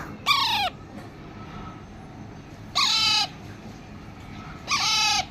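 A parrot calling three times, each call about half a second long and dropping in pitch at the end.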